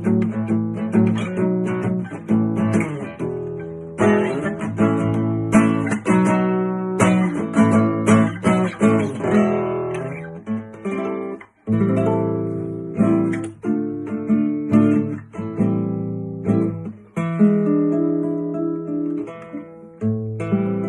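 Yamaha G-255S II nylon-string classical guitar played solo, a run of plucked notes and chords with a brief break about eleven seconds in. Recorded through a phone microphone, so the tone is a little harsh.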